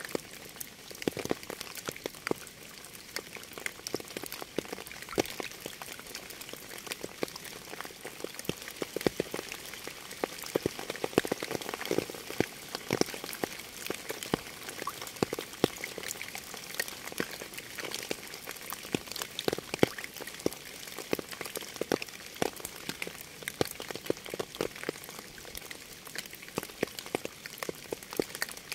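Steady rain: a dense, irregular crackle of individual drops striking a hard surface over a soft hiss, some drops landing with a fuller, lower tap.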